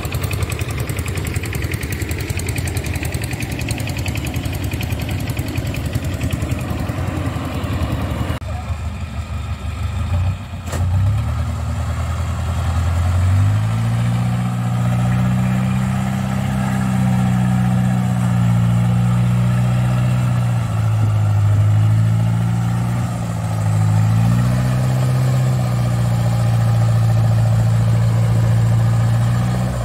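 Diesel engine of the farm machinery in the mud paddy running. After an abrupt change about 8 seconds in and a single knock near 11 seconds, a strong low engine hum rises in pitch about 13 seconds in, holds, and dips and recovers twice.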